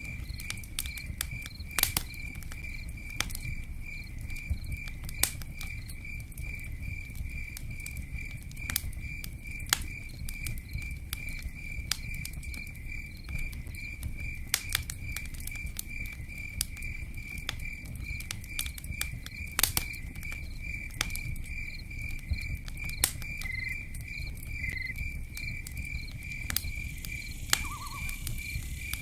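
Campfire crackling with scattered sharp pops over steady rain patter, while a cricket chirps evenly about twice a second.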